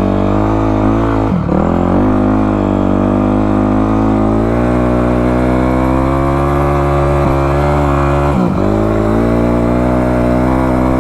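Dirt bike engine running hard while riding in soft beach sand. Its pitch dips sharply and climbs back twice, about a second in and again near the end.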